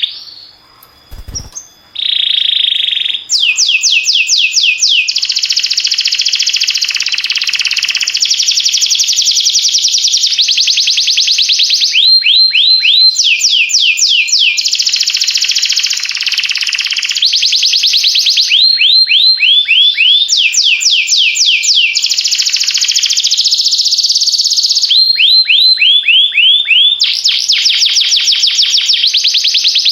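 Domestic canary singing a loud, near-continuous song of rapid trills, each a fast run of repeated downward-sweeping notes, switching to a new trill every second or two. A brief pause with a low thump comes about a second in.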